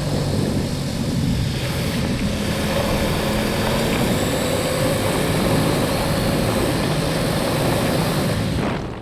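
Motorcycle engine running steadily under way, with heavy wind rush on the microphone.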